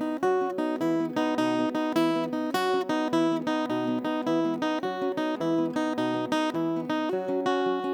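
Acoustic guitar strummed in a steady rhythm, playing an instrumental passage of chords.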